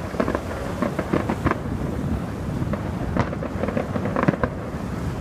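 Aerial fireworks display: a rapid, irregular series of bangs and crackles over a continuous rumble of shell bursts.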